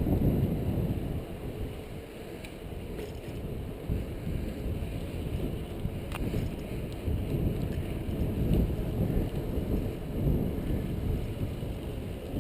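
Wind buffeting the camera microphone: a gusty low rumble that rises and falls.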